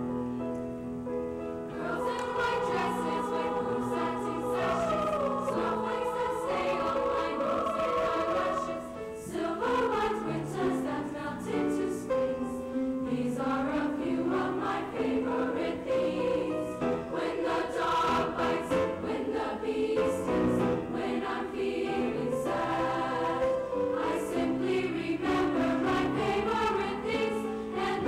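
Junior high school choir singing a song.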